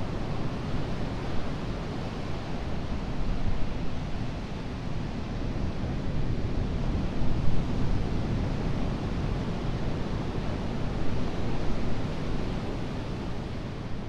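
Ocean surf washing and breaking on a beach, a continuous rush that swells and eases, with some wind on the microphone.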